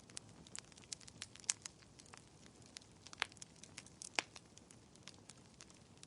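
Wood fire crackling in a fireplace: irregular sharp pops and snaps, a few louder ones standing out, over a steady low rush of the flames.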